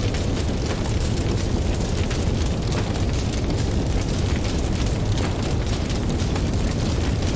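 Campfire crackling, with many small, irregular pops over a steady low rumble.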